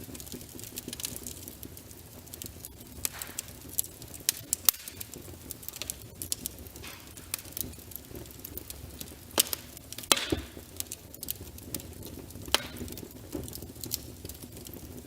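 Wood fire burning in a fireplace: a low steady rumble of flames under irregular crackles, with a few louder pops from the burning logs.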